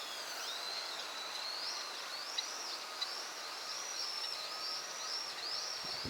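A small songbird calling: a steady series of thin, high rising-and-falling notes, about two a second, with two short sharp clicks midway.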